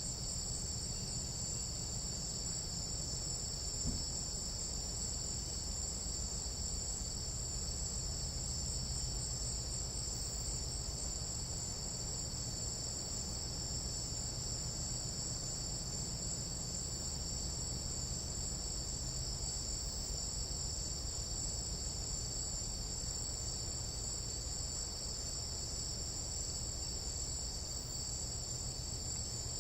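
Tropical jungle night insects in a continuous chorus, several steady high-pitched tones layered together, over a low steady rumble; one faint knock about four seconds in.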